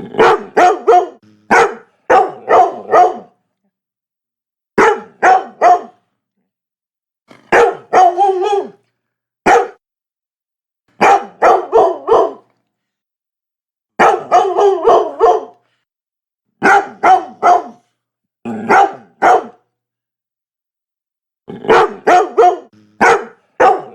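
Labrador retriever barking in quick runs of two to four barks, with pauses of a second or two between the runs.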